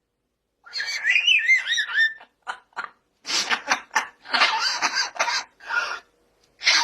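Pet talking parrot calling in a series of bursts: wavering high whistle-like notes about a second in, then harsh, laugh-like chatter with short gaps.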